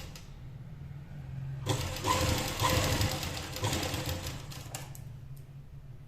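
Sewing machine stitching a buckram neck piece onto fabric. It runs in one long burst of about three seconds starting near two seconds in.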